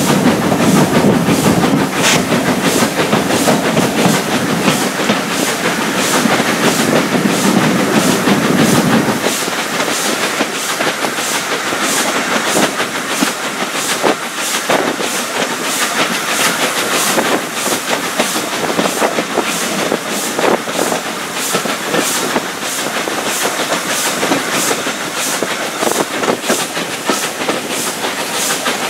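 Heritage steam-hauled passenger train running, heard from a carriage window: wheels clicking over the rail joints in a steady rhythm over a continuous running noise. A heavier low rumble underneath cuts off suddenly about nine seconds in.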